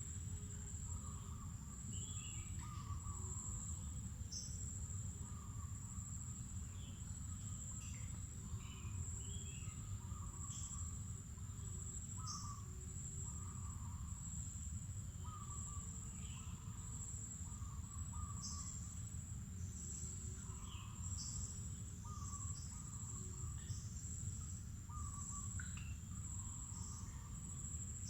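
Insects keeping up one steady, high-pitched drone, with many short bird chirps and calls scattered through it, over a constant low rumble.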